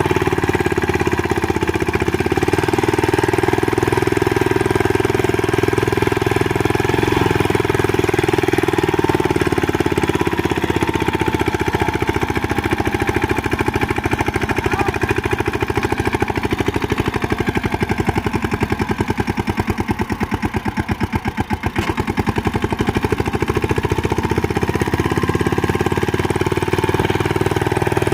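Tractor engine running with a rapid, even chugging knock, its level dipping briefly about three quarters of the way through before picking up again.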